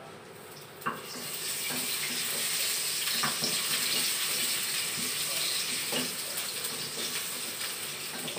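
Ginger and onion hitting hot oil in a stainless steel wok and sizzling steadily from about a second in, with a few light knocks against the pan.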